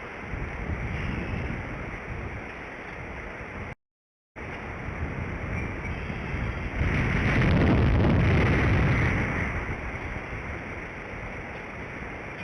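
Wind buffeting an outdoor nest-camera microphone, a steady rushing that swells into a stronger gust about seven seconds in and eases off two seconds later. The sound cuts out completely for half a second near four seconds.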